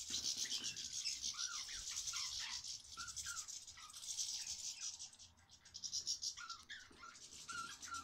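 Budgerigars and goldfinches chirping and twittering: a steady, rapid high-pitched twitter with short chirps scattered through it, easing briefly about halfway.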